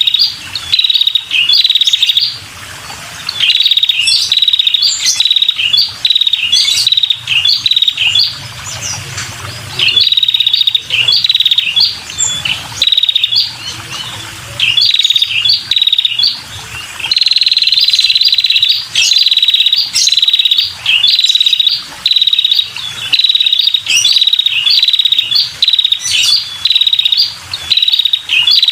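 Female prenjak kepala merah (a small tailorbird) calling rapidly: a run of short, sharp, high chirps about two a second, broken by a longer unbroken trill a little past halfway.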